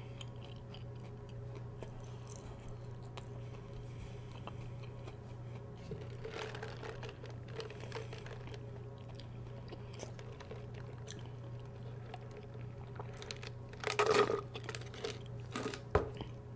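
Close-miked chewing of fried fast food with soft crunches and swallows, over a steady low hum. Around the middle come sips of Mountain Dew through a straw, and about 14 seconds in a short, louder mouth sound stands out.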